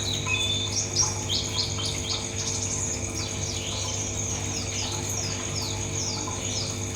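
Buxton's white-eye (pleci buxtoni) singing a fast run of high, short chirps, many sliding downward, over a steady high-pitched tone and a low hum.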